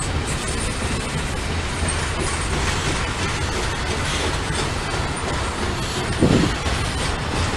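Norfolk Southern freight train rolling past, its cars making a steady noise on the rails, with one short louder thump about six seconds in.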